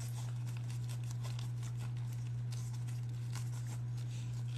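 Faint rustling and light ticks of stiff leather being handled and creased by hand, over a steady low hum.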